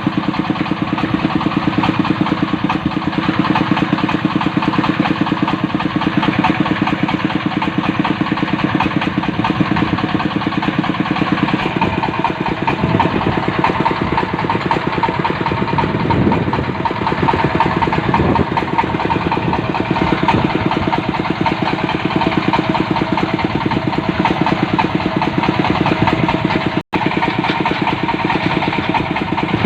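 Diesel engine of a water-well drilling rig running steadily, its note changing about twelve seconds in, with a momentary break in the sound near the end.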